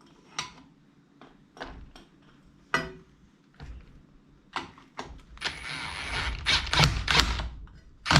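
Metal parts and hand tools being handled while a seed drill disc assembly is put together: scattered sharp clicks and knocks, becoming a busier, continuous clatter about five and a half seconds in.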